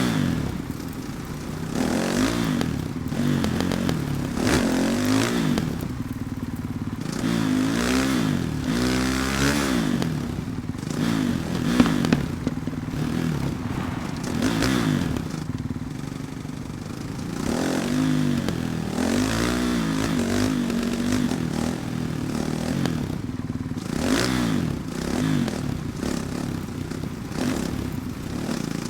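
Yamaha YZ450F dirt bike's single-cylinder four-stroke engine being ridden, its pitch rising and falling again and again as the throttle is opened and closed. A sharp knock comes about twelve seconds in.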